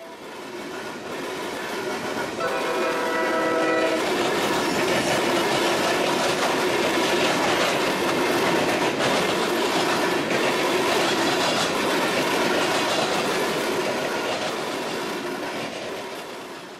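CSX freight train passing: one horn blast lasting about a second and a half, a couple of seconds in, over the diesel locomotive and covered hopper cars rolling by, the wheels clattering on the rails. The rumble builds over the first few seconds and then holds steady.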